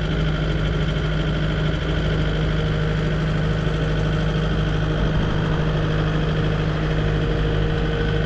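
A vehicle engine idling steadily, with an even low hum and no revving.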